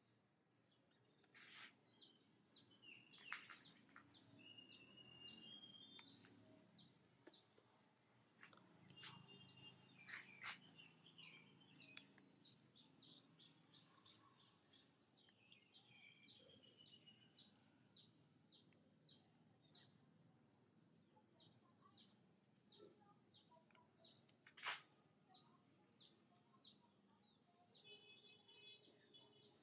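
A small bird chirping faintly and steadily, short high falling chirps at about two a second, with a few sharp clicks mixed in.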